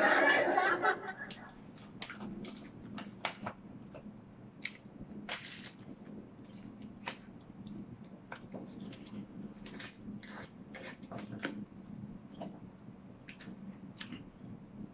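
A person chewing food close to the microphone, with many short, wet mouth clicks and smacks at an irregular pace.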